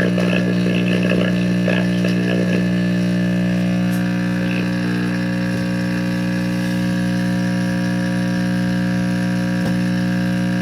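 Vintage 1950s General Electric C407 tube radio giving off a loud, steady mains hum through its speaker, with a faint, garbled station breaking through during the first couple of seconds and a single click near the end. The heavy hum is typical of failing filter capacitors, which the repairer blames on bad electrolytics.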